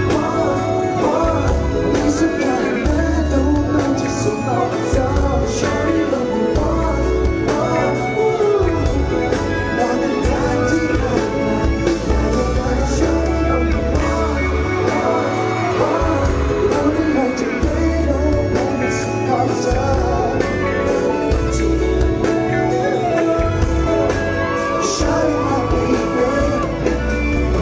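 Live pop music with a heavy pulsing bass line and some singing, echoing in a large hall.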